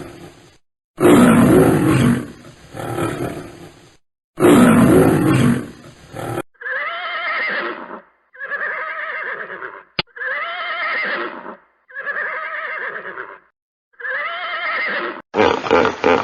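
A lion roaring twice, deep and loud, then a horse whinnying five times with short pauses between the calls. Just before the end, a different animal's rapid, rhythmic grunting begins.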